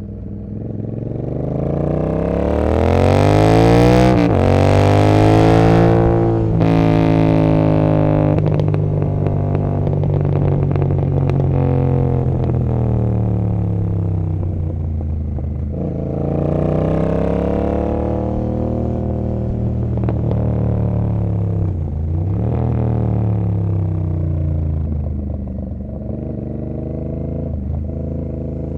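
Royal Enfield Continental GT 650's parallel-twin engine through Emgo cafe mufflers, accelerating hard through the gears. Engine speed climbs and drops suddenly at shifts about four and six and a half seconds in, then slowly falls. It climbs again near the middle and falls off after about twenty-two seconds.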